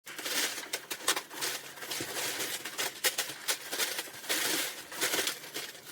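Irregular rustling and crinkling with many short sharp clicks, uneven in loudness.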